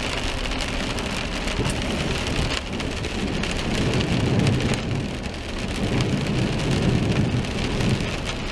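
Heavy rain pattering on a car, with a low rumble underneath that swells twice, around 4 seconds in and again from about 6 to 8 seconds.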